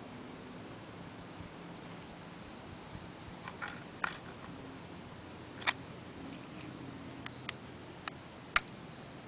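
A series of sharp clicks and knocks, seven or so spread irregularly, the loudest a little past halfway and near the end, over a faint steady hiss.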